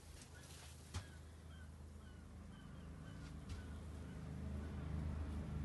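A bird outside calling a run of short chirping notes, about two a second, faint, with a single click about a second in and a low rumble that grows louder toward the end.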